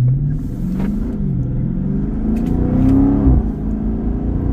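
Chrysler 300C's 6.4-litre HEMI V8 accelerating under load, its pitch climbing, dropping at an upshift about a second in, climbing again to a second upshift a little after three seconds, then rising once more.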